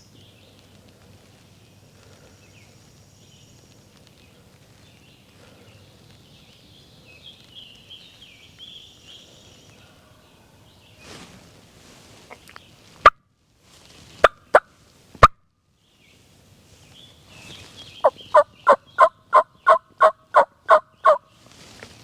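Turkey calling in hen language: a few loud, sharp clucks, then a little later a run of about eleven evenly spaced yelps, roughly four a second, very close and loud as from a hunter's turkey call.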